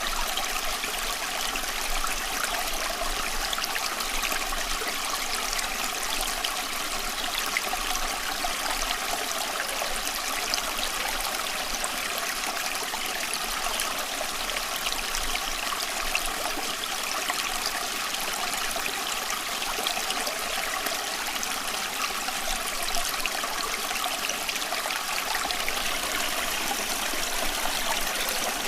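Running water, a steady, even rush with fine splashing detail and no change in level throughout.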